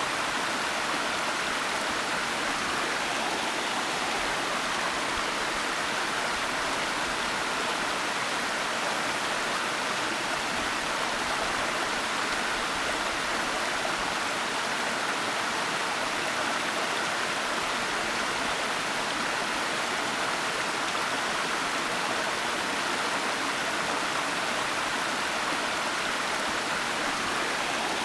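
Steady rushing of a waterfall, an even hiss of falling water with no breaks or changes.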